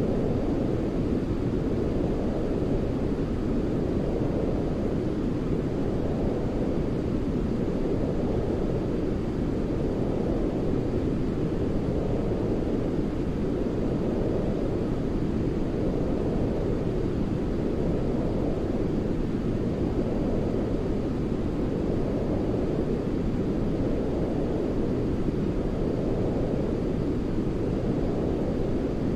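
Continuous sleep white-noise track: a steady, deep hiss, heavier in the low end, its brighter part gently swelling and fading about every two seconds.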